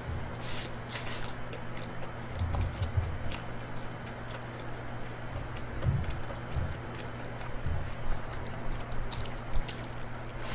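A person chewing and biting into fried chicken close to the microphone, with soft chewing thumps and a few sharp crunches of the crisp coating, mostly near the start and near the end. A steady low hum runs underneath.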